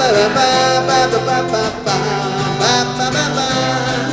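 A live band plays a wordless stretch of an upbeat country-style song: guitar strumming over a steady bass line, with a melody line that slides between notes at the start and again about two and a half seconds in.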